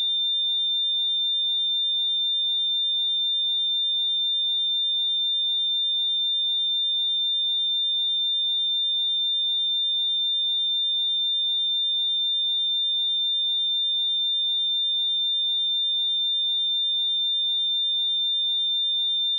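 A steady pure sine-wave test tone at 3598 Hz, a single high-pitched note held at constant level.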